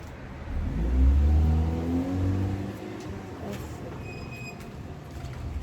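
A car driving by, its engine rising in pitch as it accelerates, loudest about a second in and fading by about three seconds. A brief thin high tone sounds near the four-second mark.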